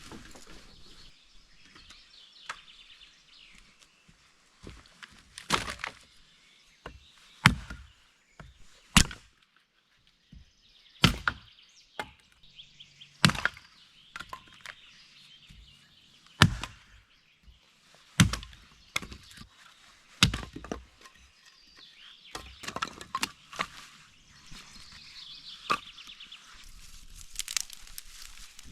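Wood being struck and cracking: sharp knocks, each with a brief crack, about one every two seconds, irregularly spaced, with faint rustling between them, typical of firewood being chopped.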